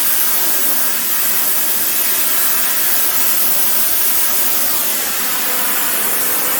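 Gas-bottle-fed heating torch burning with a steady hiss while it heats a steel tube before bending.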